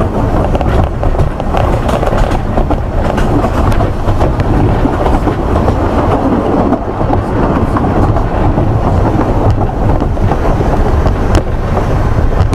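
Steady running noise of a narrow-gauge train heard from on board, wheels rumbling on the track with scattered clicks and clatter over the rail joints.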